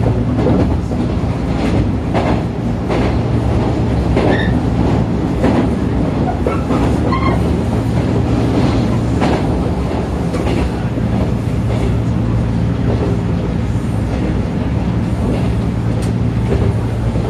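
Interior running noise of a 415-series electric multiple unit under way: a steady motor and wheel hum with irregular clatter of the wheels over rail joints, and a few short squeals.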